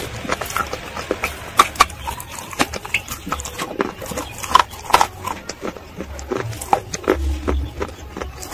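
A person chewing slate pencil coated in a thick creamy paste: irregular sharp crunches and crackles mixed with wet, sticky mouth sounds.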